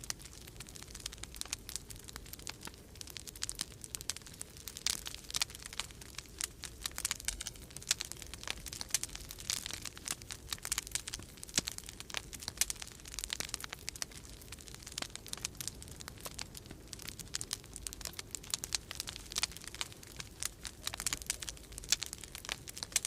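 Wood fire crackling in a fireplace, with many irregular sharp snaps and pops, over a low steady rumble of storm wind.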